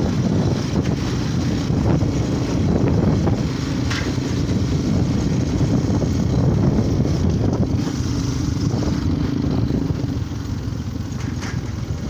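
Motorcycle engine running steadily under way, with road rumble and wind buffeting the microphone.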